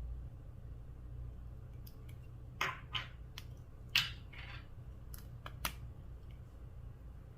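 Slime being pressed and worked by hand, giving a handful of short wet crackles and pops, the loudest about halfway through, over a low steady hum.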